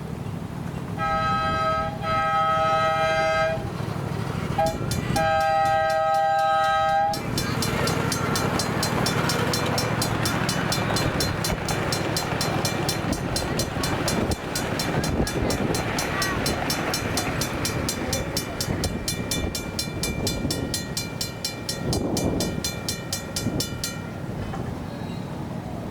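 A model locomotive's multi-chime horn blows the grade-crossing pattern: long, long, short, long. Right after it, the RACO mechanical crossing bell rings rapidly and steadily, stopping a couple of seconds before the end, while the train rumbles over the crossing.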